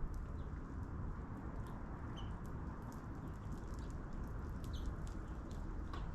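A few short, faint bird chirps over a steady low background rumble, with many small scattered ticks.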